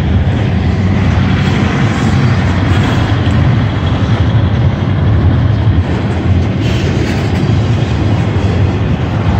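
Freight train rolling steadily past at a grade crossing: a continuous low rumble of railcars on the rails.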